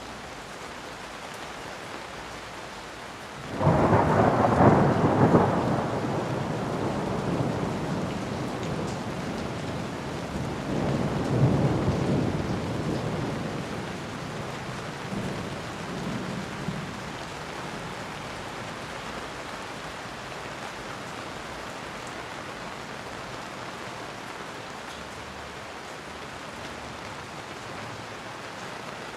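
Steady rainfall with thunder: a sudden loud thunderclap a few seconds in that rumbles on and fades, a second rumble swelling and dying away mid-way, then a faint last grumble before only the rain remains.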